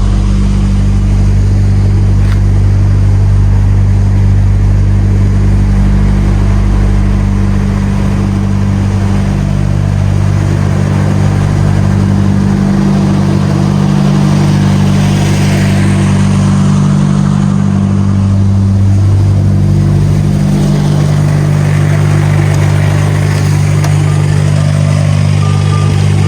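Diesel engine of a DAF XF truck droning steadily at cruise from inside the cab, with road noise; its low pitch shifts slightly a few times.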